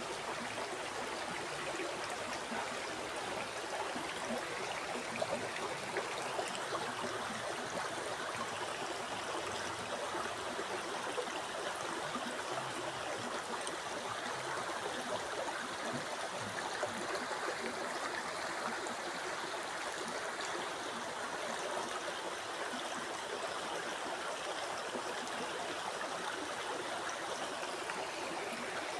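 River water flowing and burbling steadily over rocks, with small splashes here and there.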